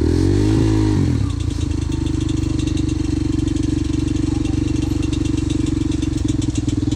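Dirt bike engine revving up and back down in the first second, then running at a steady speed, with rattling along with it.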